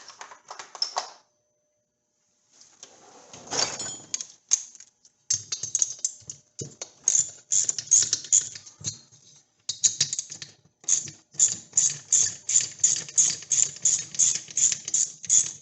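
Hand ratchet wrench clicking through quick, repeated back-and-forth strokes while loosening fasteners on an 80cc two-stroke bicycle engine kit. The strokes come in scattered groups at first and settle into an even run of about three a second.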